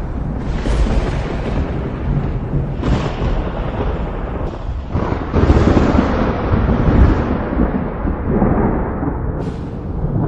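Thunderstorm thunder: several sharp cracks, each rolling into a long low rumble, the loudest rumble near the middle.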